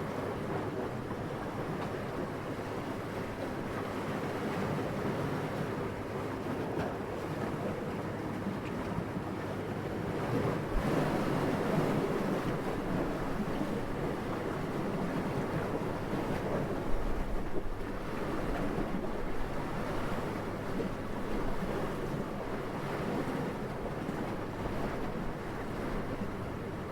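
Steady rushing wind, swelling into a stronger gust about ten seconds in, with a brief low buffet of wind on the microphone about two-thirds of the way through.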